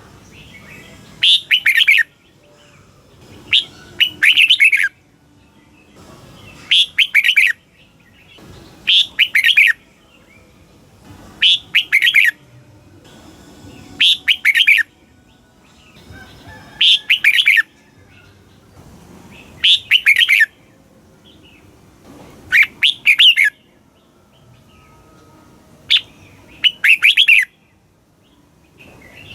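Red-whiskered bulbul singing: short, loud warbled phrases of about a second each, repeated every two to three seconds.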